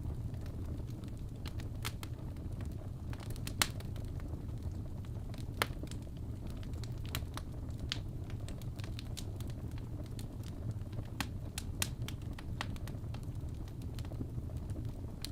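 Wood fire crackling in a fireplace: a steady low rumble with irregular sharp pops and snaps, a few of them louder.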